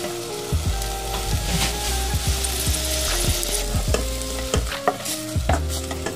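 Minced garlic and onion sizzling as they fry in oil in a stainless steel pot, stirred with a wooden spoon that clicks and scrapes against the pot now and then.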